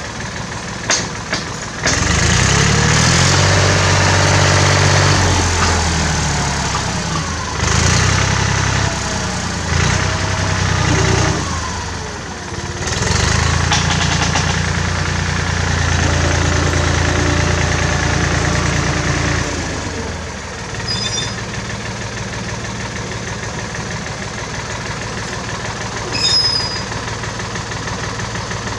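Old 1967 David Brown tractor engine running: it idles, is brought up to higher, louder revs for most of the time, with a short dip and pitch changes in the middle, then settles back to a steady idle about two-thirds of the way through.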